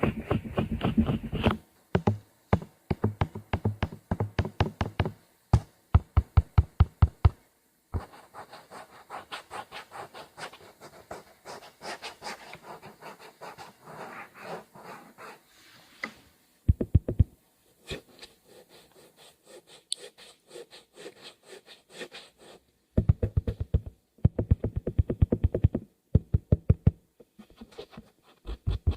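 Close-miked ASMR tapping: bursts of rapid taps, about five or six a second, that stop and start again, with a softer stretch of scratching strokes in the middle.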